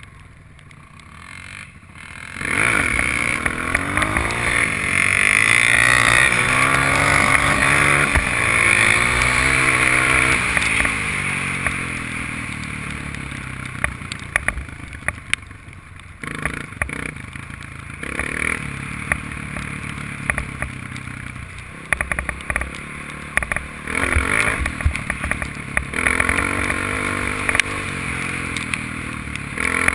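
Honda dirt bike engine, quiet at first. About two seconds in it opens up, its pitch rising and falling as it revs and changes gear, then it runs more evenly, with frequent sharp clicks and rattles of the ride over rough ground.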